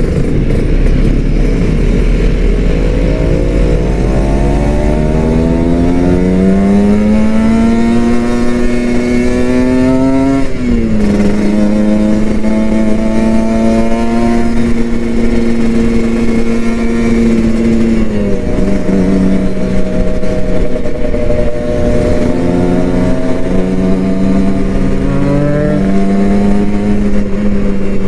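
Kawasaki Ninja RR 150's two-stroke single-cylinder engine on the move, revs climbing for several seconds through the gear, then dropping sharply at a gear change about ten seconds in. It holds steady revs at cruise, then eases off and picks up again with another shift near the end.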